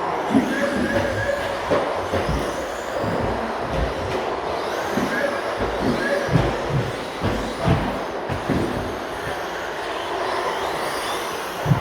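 Radio-controlled stadium trucks racing: faint whines rising and falling in pitch over a steady rush, with frequent short low thumps.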